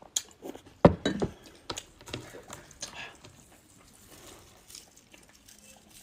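Close-miked eating sounds: a run of sharp clicks, knocks and crunches in the first three seconds, the loudest about a second in, then fainter scattered clicks of food and tableware being handled.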